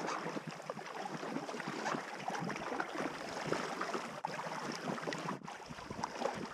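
Rain pattering and water splashing around a packraft on the river: a dense, irregular patter with no steady tone.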